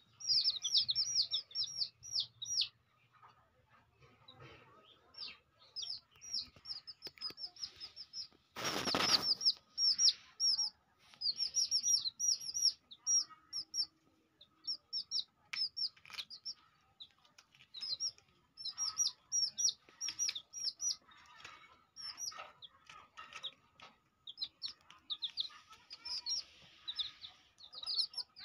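Small birds chirping in quick runs of short, high, downward-sliding notes, with pauses between runs. About nine seconds in there is one brief loud rustle.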